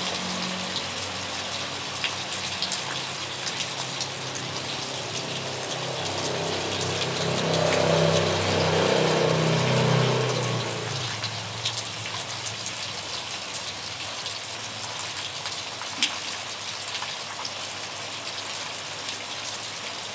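Steady rain falling, with scattered drip ticks. Under it a passing vehicle's engine hum swells to its loudest about eight to ten seconds in, then fades out by about eleven seconds, leaving the rain alone.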